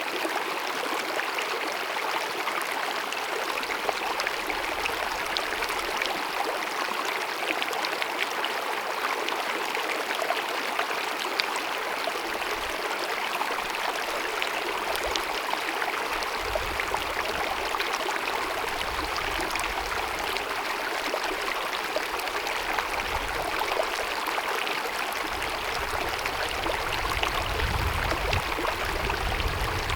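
Small mountain stream babbling and gurgling steadily over rocks, with occasional low rumbles in the lower range.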